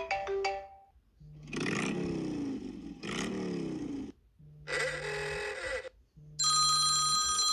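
iPhone 13 ringtone and alert-tone samples playing one after another with short gaps. A pitched melodic tone ends, then two noisy sound-effect tones with falling pitch, then a shorter tone, and about six seconds in a bright, bell-like ringing tone starts. The bell-like tone is the loudest.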